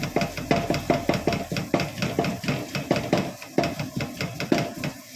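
A cooking utensil knocking and scraping against a frying pan in a quick, uneven run of clatters, several a second, as chicken and peppers are worked in the pan.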